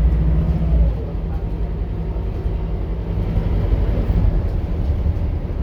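Scania K230UB bus engine and ZF automatic drivetrain running under way. The engine is loudest for about the first second, then its level drops and it runs on steadily.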